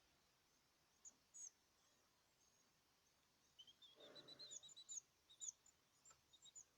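Caged birds chirping faintly: short high chirps now and then, with a quick run of them in the middle and a brief soft rustle about four seconds in.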